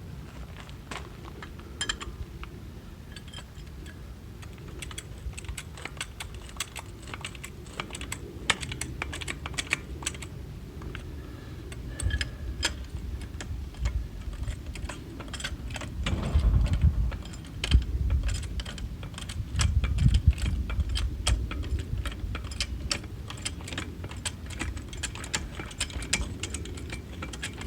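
Hand tools working on a stuck steering part, a rapid, irregular clatter of clicks and taps of metal on metal, with a few heavier low thumps about halfway through as the part is worked loose.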